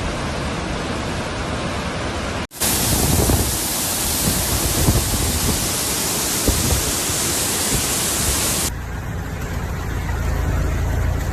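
Steady rushing noise of water in a heavy rainstorm, in three stretches that change abruptly: a brief dropout about two and a half seconds in, a brighter, louder stretch, and a duller stretch from about nine seconds.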